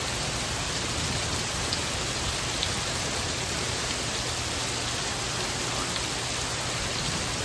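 Steady hiss of flash-flood water, rain and runoff in a flooded yard, with a few faint ticks.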